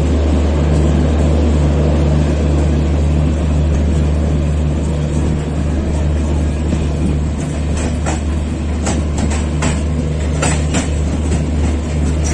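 Moving Indian Railways passenger train heard from inside a coach: the steady low drone of the power car's diesel generator over the rumble of wheels on rail. From about eight seconds in there is a run of sharp clacks from the wheels.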